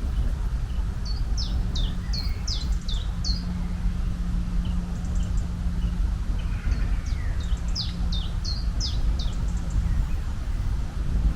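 Songbirds chirping in two short runs of quick, falling chirps, over a steady low rumble.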